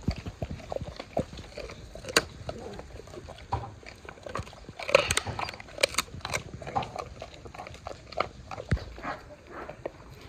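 Large Leonberger dogs chewing raw meat and bones: irregular crunching, chomping and jaw clicks.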